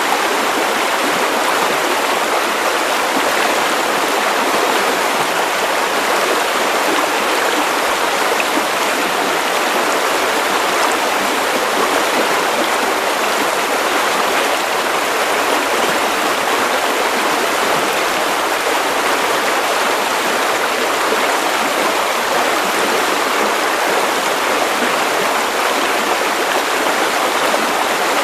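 Steady white noise: an even, unchanging hiss with little bass, like rushing water.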